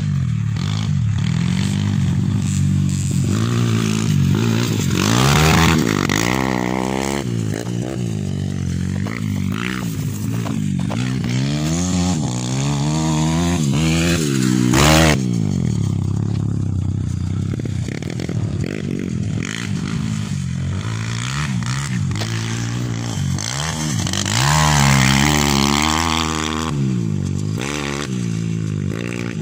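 Several motocross bikes racing, their engines revving up and down through the gears as they come by. Three louder swells as bikes pass close, the sharpest about halfway through.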